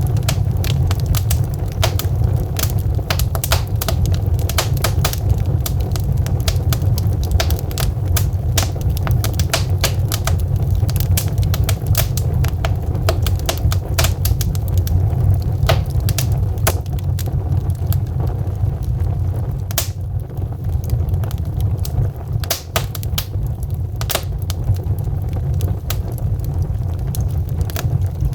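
Wood fire crackling in a fireplace: burning logs throw off frequent, irregular sharp pops and snaps over a steady low rumble.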